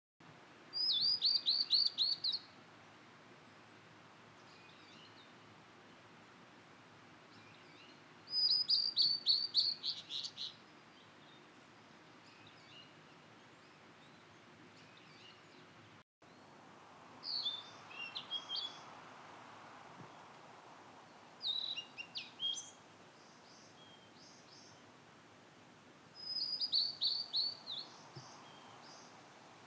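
Blue-and-white flycatcher singing: phrases of quick, high, down-slurred notes, each phrase a second or two long, repeated every several seconds over faint steady background noise.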